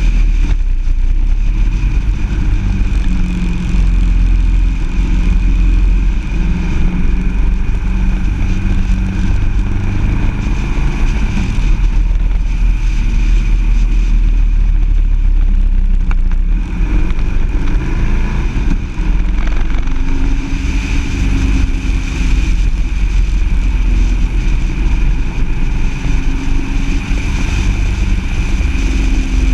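A car engine pulling through a run of curves, its pitch rising and falling as the driver accelerates and eases off, over a steady heavy rumble of wind and road noise.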